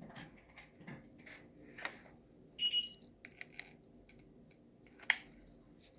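Faint rustling and small clicks of hands tucking and folding craft material, with a short high electronic beep about two and a half seconds in and a sharp click near the end.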